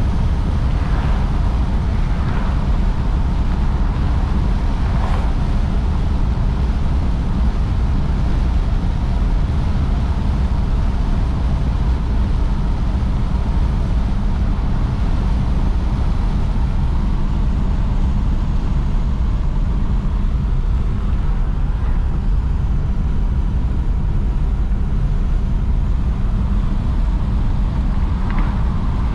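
1953 Oldsmobile Super 88 driving at a steady speed: a constant low rumble of its Rocket V8 and road noise, with no change in speed or load.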